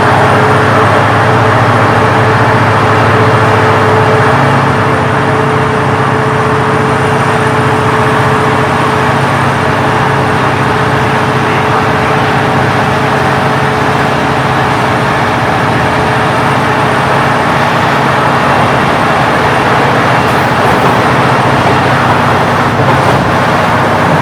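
Large diesel engine running steadily under way, a continuous loud drone with a thin higher tone that fades out about nine seconds in.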